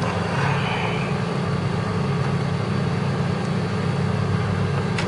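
Steady low mechanical hum with a constant drone, unbroken and even in level.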